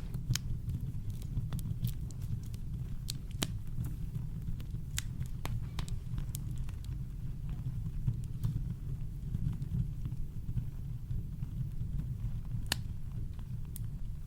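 Campfire crackling: irregular sharp pops and snaps over a steady deep brown-noise rumble, with a louder snap about three seconds in and another near the end.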